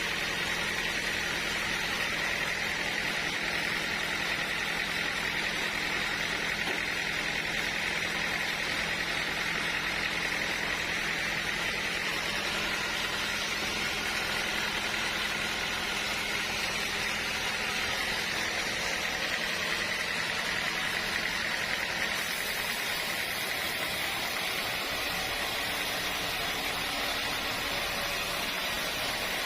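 Sawmill machinery running steadily: an even mechanical drone with a constant high whine, without breaks or changes in pitch.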